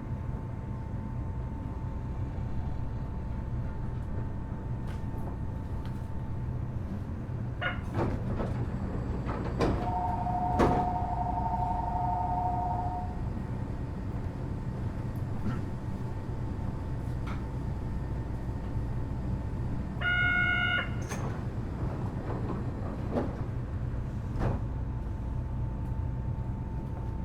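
Kitakyushu Monorail Series 1000 car standing at a station: its sliding doors knock open and shut, with a two-note door chime and a short buzzer, over a steady hum with a faint steady tone from the car's equipment.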